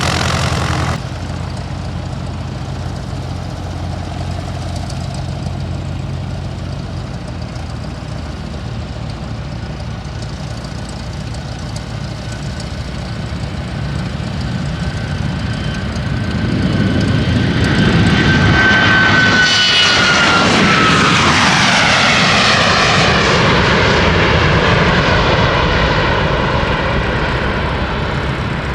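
Airplane passing close by: its engine noise builds for several seconds and peaks, and a high whine drops in pitch as it goes past, then the noise eases off.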